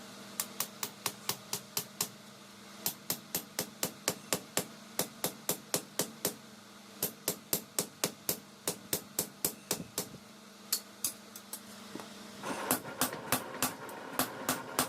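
Hammer blows on hot leaf-spring steel at an anvil, struck in quick runs of about four to five blows a second with short pauses between runs. A steady hum runs underneath, and a rougher noise joins the blows near the end.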